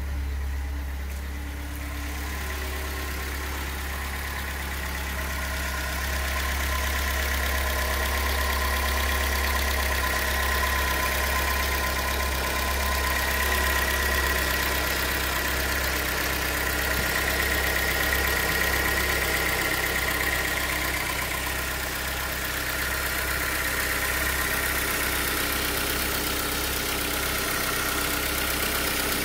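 Fiat Punto Mk2's 1.2-litre 8-valve four-cylinder petrol engine idling steadily, with a faint high whine over the low hum.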